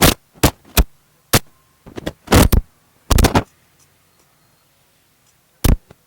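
A series of loud, irregular thumps and knocks: several in quick succession over the first three and a half seconds, then one more near the end.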